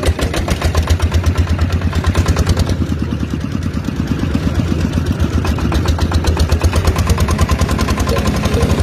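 Tractor engine running steadily with a rapid, even chugging beat.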